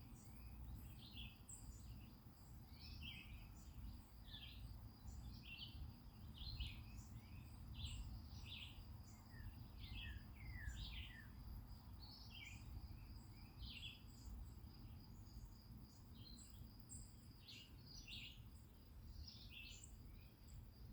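Wild birds chirping and singing, many short high calls one after another with a few quick falling notes around the middle. A steady, thin high tone and a low rumble sit faintly underneath.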